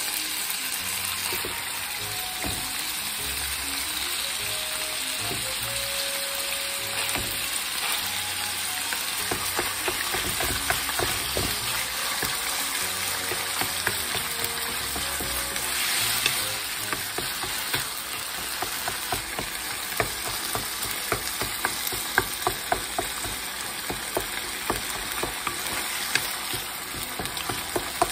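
Ground chicken and crumbled firm tofu sizzling in a deep frying pan over medium heat, stirred with a wooden spatula that taps and scrapes against the pan. The taps come more often in the second half.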